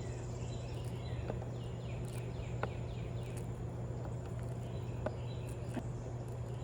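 Outdoor ambience: a steady low hum under faint chirping calls, with a few isolated soft clicks.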